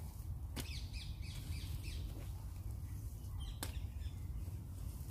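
Birds chirping and calling in short high notes, with two sharp clicks and a steady low rumble underneath.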